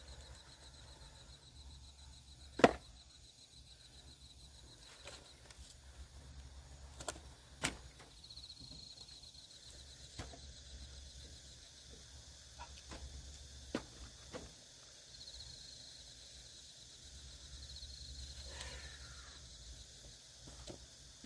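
An axe striking firewood with one sharp, loud chop a few seconds in, followed later by a few fainter knocks of wood.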